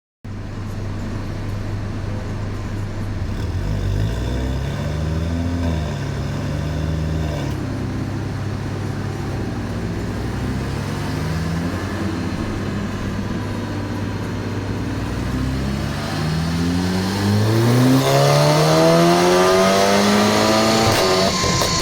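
Volkswagen Golf 6 R's turbocharged 2.0-litre four-cylinder engine running steadily, revving up briefly about four seconds in, then climbing steadily in pitch through a long pull in the last few seconds that cuts off sharply near the end.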